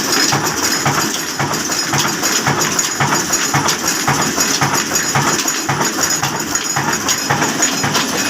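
Old black stationary diesel engine running at slow speed, its exhaust and mechanical beats coming in a steady rhythm a little under three a second, with clattering on top.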